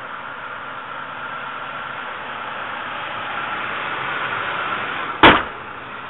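1995 Mercury Grand Marquis's 4.6-litre modular V8 idling, a steady running noise with a faint high tone in it, then one sharp loud thump a little after five seconds in.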